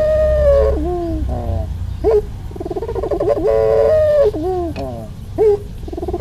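Two puter pelung doves (Barbary/ringneck doves) cooing back and forth: long, pulsing coos that end in falling and rising swoops, often two voices overlapping at different pitches. A low rumble sits underneath.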